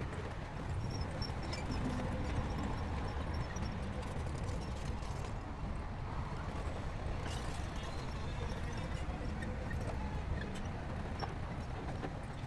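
Bulldozer's diesel engine running steadily with scattered clanks from its tracks.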